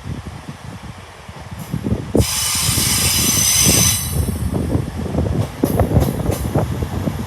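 Train passing with a low rumble, and a high squeal that starts abruptly about two seconds in and cuts off under two seconds later. A few sharp clicks follow near the end.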